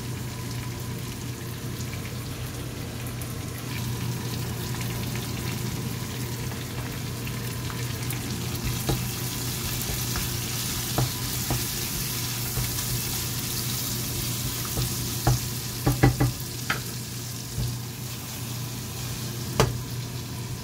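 Chicken pieces sizzling steadily in hot oil in a nonstick frying pan. A wooden spatula stirs them, with several sharp knocks against the pan in the second half.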